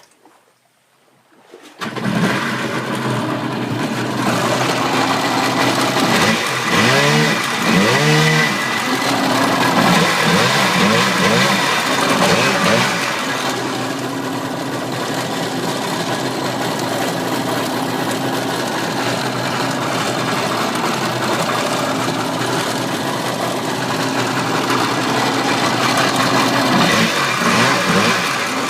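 1991 Kawasaki TS jet ski's two-stroke twin engine coming in suddenly about two seconds in, then running steadily with throttle blips that make the pitch rise and fall, a cluster about a quarter of the way in and another near the end. The seller says the engine runs fine.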